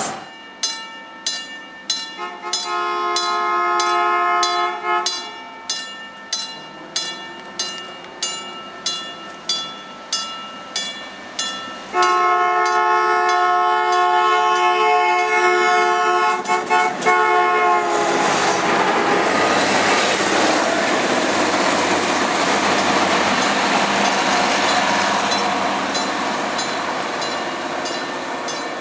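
A passenger train sounds its horn twice: a chord of about two seconds, then a longer blast of about five seconds whose pitch drops at the end as it passes. The train then runs by with a steady rolling rumble. Under it all, a level-crossing warning bell rings at about two strikes a second.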